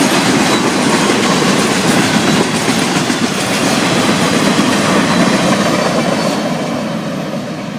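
Florida East Coast Railway freight train's cars rolling past at speed: a steady, loud wheel-on-rail rumble and clatter that eases off slightly near the end.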